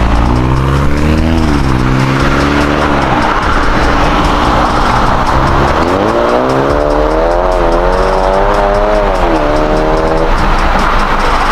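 BMW B48 2.0-litre turbocharged four-cylinder engine revving up and dropping back twice through a newly fitted aftermarket cat-back exhaust. The second rise is held for about four seconds before falling away.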